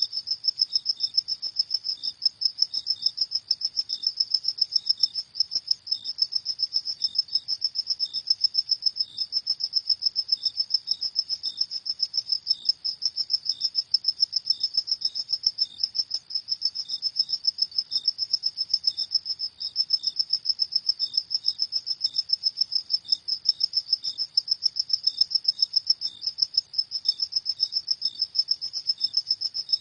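Crickets chirping at night: a continuous, rapidly pulsing high-pitched trill, with a second, fainter and slower chirp pulsing just below it.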